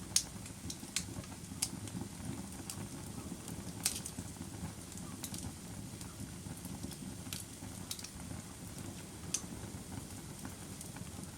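Fire crackling: sharp pops every second or two over a steady low rumble of burning.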